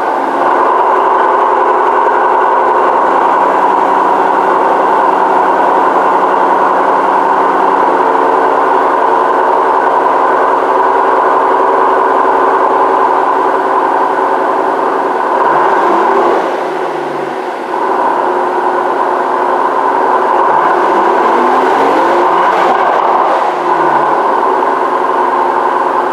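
Mercedes-Benz S65 AMG's twin-turbo V12 running steadily just after being started, with two brief rises and falls in pitch in the second half.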